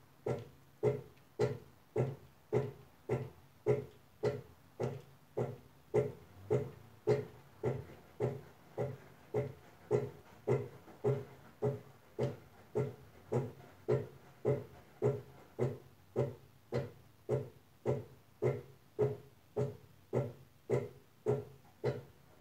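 Brastemp Advantech Wash washing machine agitating in short, gentle strokes for its wool/extra-delicate cycle. It makes a humming pulse from the motor about twice a second, very even in rhythm.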